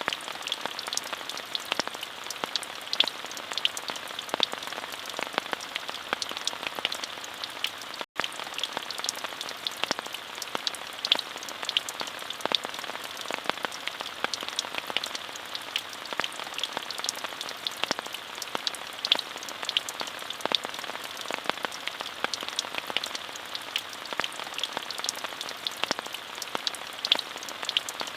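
Steady rain falling, an even hiss dotted with the clicks of individual drops, with a momentary dropout about eight seconds in.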